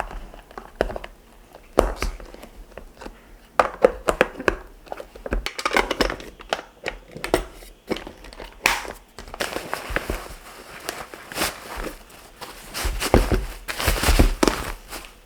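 Kitchen handling sounds: an irregular run of light clicks and knocks mixed with crinkly rustling, like plastic wrap or packaging being handled. The rustling comes in longer stretches in the second half.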